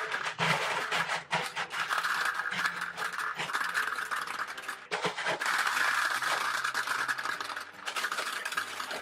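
Lots of gumballs pouring into a toy gumball machine, a continuous dense rattling clatter of small hard balls.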